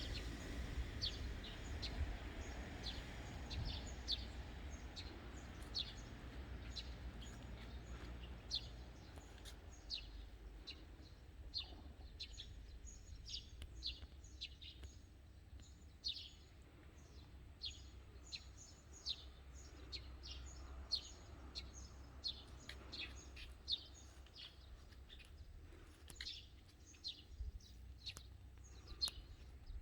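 Small birds chirping over and over: quick, sharply falling chirps, several a second at times, over a steady low rumble of background noise.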